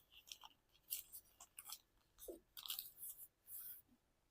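Faint crinkling and creasing of a sheet of origami paper being folded by hand: a scatter of short, soft crackles and rustles.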